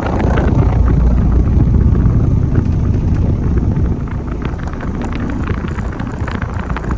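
Nordyne central air-conditioner condenser running: compressor hum under the air rush of its slow fan, driven by a GE commercial fan motor, with a rattle of quick ticks throughout.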